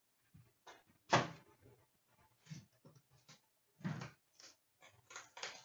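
Trading card boxes and packaging being handled on a table: a string of irregular rustles and light knocks, the loudest about a second in and again near four seconds in.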